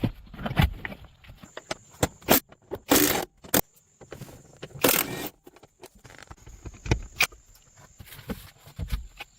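Hands working on car interior parts: irregular clicks, knocks and scraping, with two short hissing bursts about three and five seconds in.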